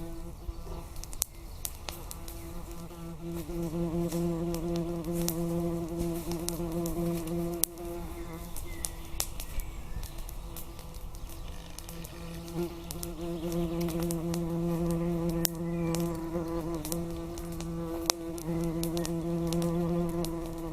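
A flying insect buzzing close by, a steady low hum that swells and fades as it moves about, with scattered sharp clicks throughout.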